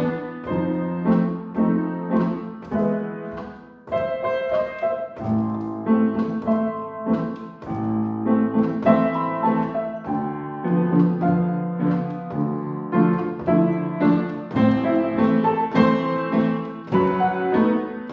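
Solo piano playing a short classical-style piece: a steady flow of notes with a brief drop in loudness about four seconds in.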